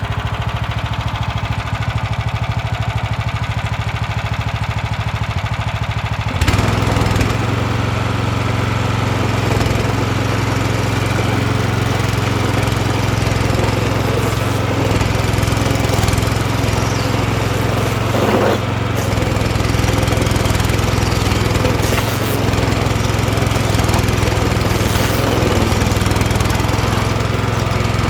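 DR stump grinder's petrol engine running steadily. About six seconds in, the throttle opens and the sound becomes a louder, rougher continuous grinding as the tungsten-tipped cutter blades chip into a tree stump, with the engine working under load.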